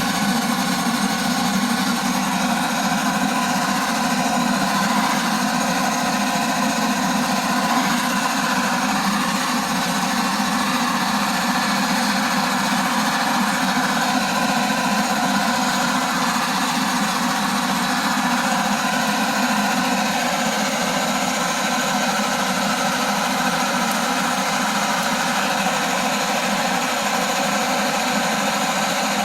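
Shinsung gas torch burning steadily at full flame, an even, unbroken rushing noise that does not let up, as it is held on wood to light a fire.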